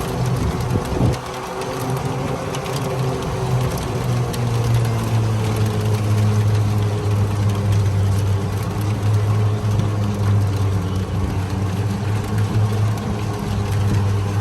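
Golf cart driving along, a steady low hum over a constant noisy rush of air and rain.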